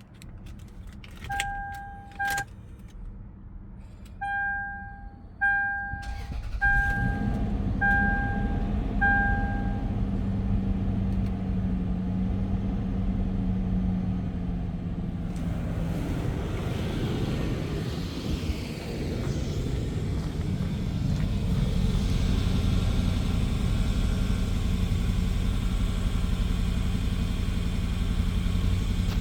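A 2008 Lexus GX470 chimes a dashboard warning, first one long tone and then about six short beeps a second apart. About six seconds in, its 4.7-litre V8 is cranked and catches quickly on a cold start, then runs at a steady fast idle that eases down slightly.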